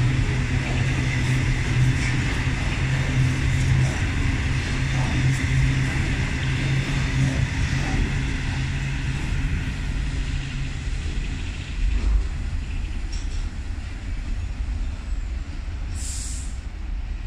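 Freight train of loaded hopper wagons rolling past at speed: a steady rumble and clatter of wagon wheels on rail, with a low hum. The sound fades after about ten seconds as the end of the train draws away.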